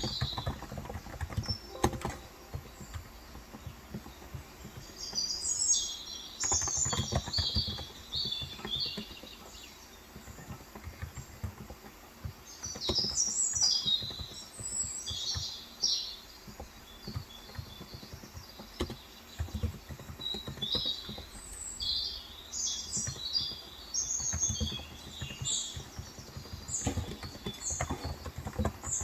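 Typing on a Cox Endeavor tenkeyless electrostatic capacitive keyboard with 35 g switches, a steady run of soft keystroke clicks, heard through a phone's microphone. Small birds chirp outside in bursts throughout.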